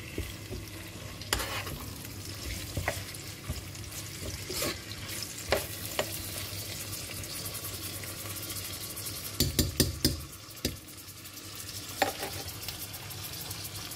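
Raw chicken pieces sizzling in hot oil with fried onions in a nonstick pot while being stirred with a metal spoon. The spoon scrapes and clicks against the pot now and then, with a quick cluster of knocks about nine and a half seconds in.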